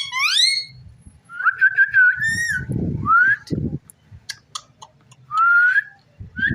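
Ringneck parrot whistling: a run of upward-gliding whistle notes with one held note, plus a few sharp clicks and two low muffled bumps.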